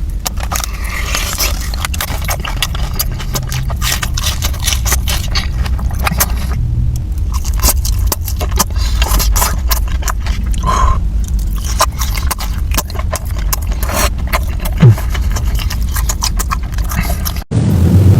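Close-miked chewing and crunching of breaded, fried mozzarella sticks: dense crisp crackles over a steady low rumble, ending in an abrupt cut.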